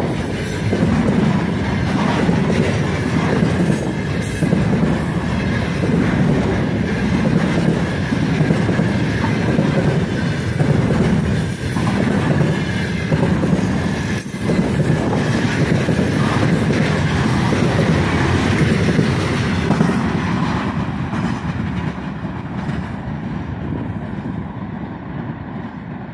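A long freight train of loaded container flatcars rolling past close by, a steady rumble of wheels on the rails. It fades over the last few seconds as the end of the train goes by.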